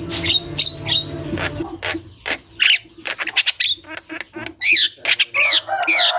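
Javan myna (jalak kebo) calling continuously: harsh squawks and chirps, turning about halfway through into a quick run of repeated arched whistled notes, about three a second.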